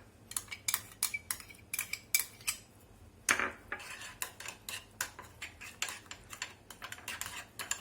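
A spoon stirring pizza sauce in a bowl, clinking and scraping against the bowl in irregular taps, a few with a short ring, and one louder clink about three seconds in.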